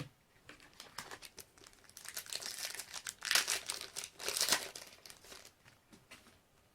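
Wrapper of a Panini basketball trading card pack crackling as it is torn open and handled, in a run of crinkly bursts that are loudest in the middle and die away near the end.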